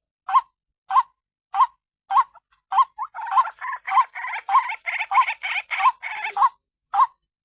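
White-breasted waterhen calling, a lure recording of the bird's harsh repeated note about every half second or so. In the middle few seconds the gaps between the notes fill with denser, overlapping calling.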